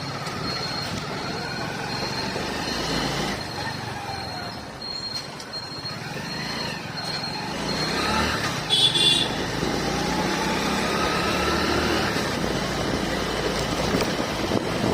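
Road traffic and a running vehicle engine whose pitch rises and falls, with a brief loud high-pitched sound about nine seconds in.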